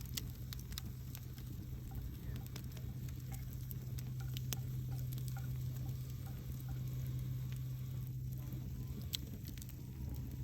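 Wood campfire crackling, with sharp irregular pops over a steady low hum; one of the sharper pops comes near the end.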